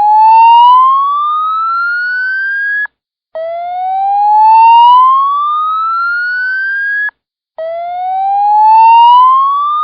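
Edwards EST hi slow whoop evacuation tone as normally heard on the EST-2 fire alarm system, taken raw from the tone source. A single tone sweeps steadily upward for about three and a half seconds, cuts off sharply, and after a short gap starts low again, repeating. One whoop ends about three seconds in, a second follows, and a third is still rising at the end. This is the fire alarm evacuation signal.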